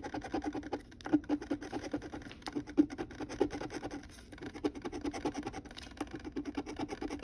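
Scratch-off lottery ticket being scratched off in rapid, continuous scraping strokes.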